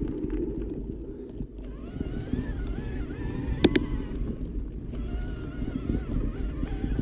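Specialized Turbo Kenevo SL e-mountain bike riding on a trail: a low rumble of tyres and wind on the microphone. A wavering whine, typical of its electric drive motor, comes in about two seconds in, and two sharp clicks sound in the middle.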